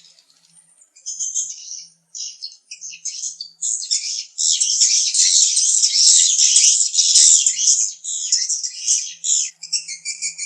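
Edible-nest swiftlets twittering: rapid, high chirps, sparse and broken at first, thickening into a dense continuous chatter from about four seconds in, then thinning again near the end.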